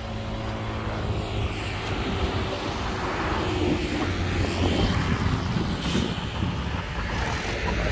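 Heavy diesel engine of a working construction vehicle running, growing gradually louder.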